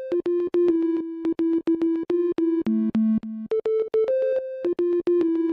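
Electronic synthesizer music: a simple melody of quick, clipped notes stepping between a few pitches, with a short phrase that repeats about every three and a half seconds.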